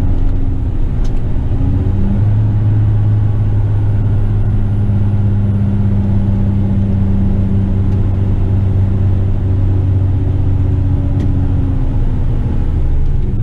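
Western Star tipper truck's diesel engine running, heard from inside the cab; its note steps up about two seconds in, holds steady, then drops back near the end.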